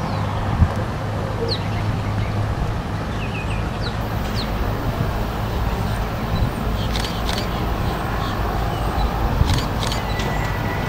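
Birds chirping now and then over a steady low outdoor rumble, with a few sharp clicks in the second half.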